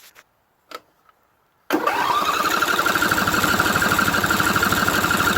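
A few light clicks, then the Craftsman DLT3000 lawn tractor's engine is cranked on its electric starter, which sets in suddenly about two seconds in with a steady whine and a fast, even pulse. The engine turns over but does not catch: it won't start, a symptom of the carburetor flooding that has made it hard to start.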